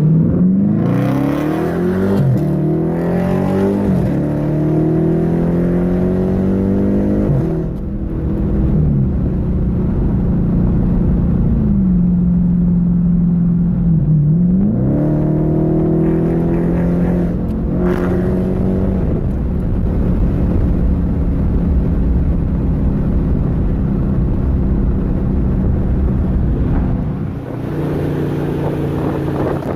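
Car engine pulling away under acceleration, its pitch climbing and dropping back about three times in the first several seconds like gear changes. It then holds a steady cruising note, easing off and picking up again briefly about halfway through and once more near the end.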